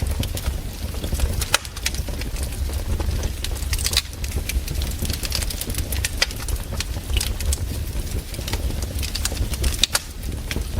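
Campfire burning: wood crackling with sharp, irregular pops over a steady low rumble.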